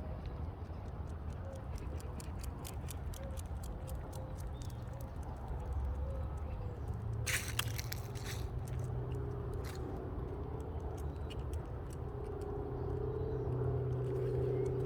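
Outdoor walking sounds: scattered light crackles and clicks over a steady low rumble, with a brief louder rustle about seven seconds in.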